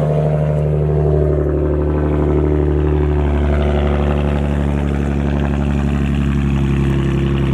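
2009 Nissan 370Z's 3.7-litre V6 running at idle just after start-up, its exhaust loud. The pitch eases a little over the first few seconds, then holds steady.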